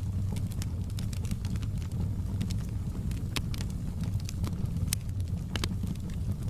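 Wood fire in a fireplace crackling: frequent sharp pops and snaps over a steady low rumble of the flames, with louder pops about three and a half and five and a half seconds in.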